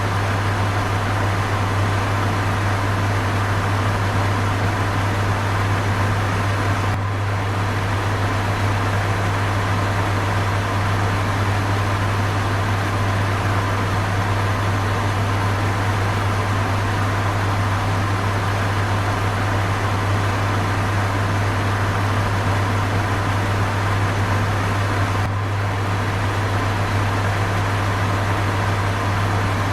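Electric fan running steadily: an even rush of air over a strong constant low hum.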